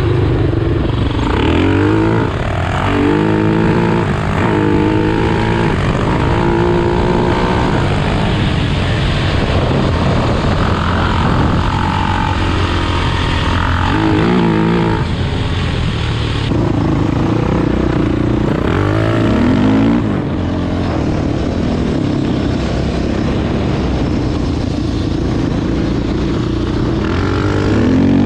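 Single-cylinder 450 cc four-stroke off-road engine revving up and down again and again as the machine is ridden, its pitch climbing and falling with each throttle blip.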